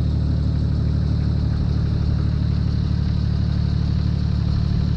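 An engine running steadily at an even speed, giving a deep, constant hum.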